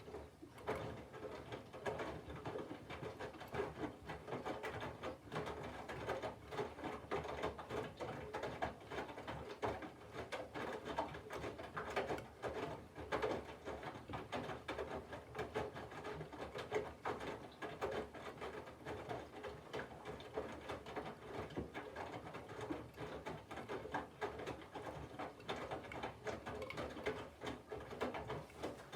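Candy front-loading washing machine drum turning, with wet laundry and water tumbling and sloshing inside during the cold wash phase. It starts suddenly after a pause.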